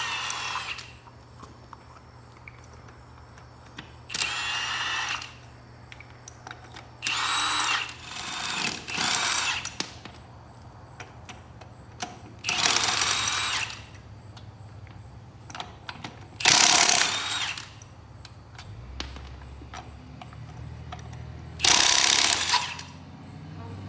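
A power tool run in short bursts of about a second each, about seven times, each burst a high hissing whine. A low steady hum runs underneath.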